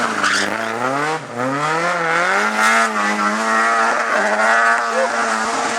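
Race car engine under hard acceleration. Its pitch rises, drops at a gear change about a second in, then climbs again and holds a high, steady note.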